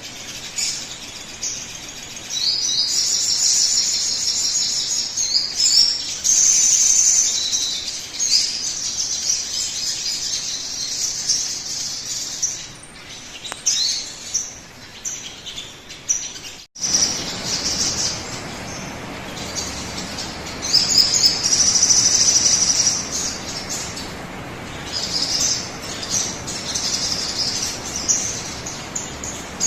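Recorded sogon bird song used as a lure call track: bursts of high-pitched chirping phrases repeating over steady background hiss. The audio cuts out for an instant a little past halfway, then the song resumes with more hiss behind it.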